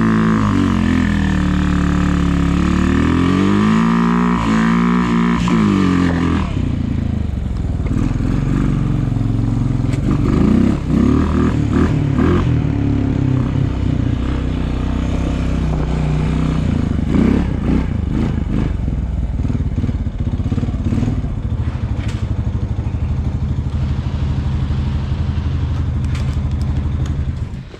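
Engine of a snow-plowing vehicle running, its pitch falling and rising again over the first six seconds, then running steadily with clattering throughout.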